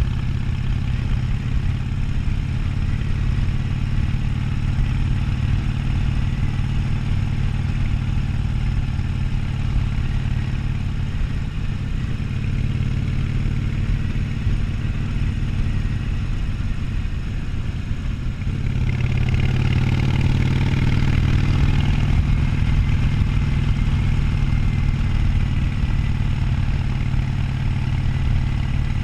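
Harley-Davidson Sportster 1200's V-twin engine running under way at a steady cruise. About two-thirds of the way in it gets louder and fuller, its pitch gliding as the throttle opens.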